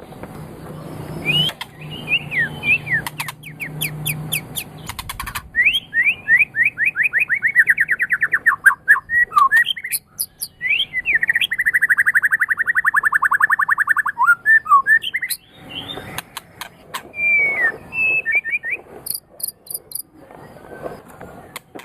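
White-rumped shama (murai batu) singing: varied whistled notes and two long, fast trills of rapidly repeated notes, one about six seconds in and one just after the middle, with sharp clicks between phrases.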